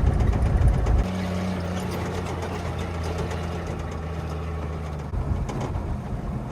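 A motor vehicle's engine running. A loud low rumble for about the first second gives way to a steady hum that holds until about five seconds in, then turns rougher.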